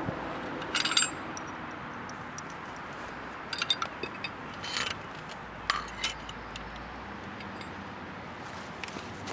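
Metal parts clinking and rattling as they are handled: a sharp clatter about a second in, then a few more clinks in the middle, over a steady low background hum.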